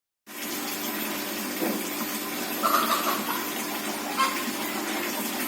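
Pond water rushing steadily, cutting in abruptly just after the start, with a few short chicken clucks over it between about two and four and a half seconds in.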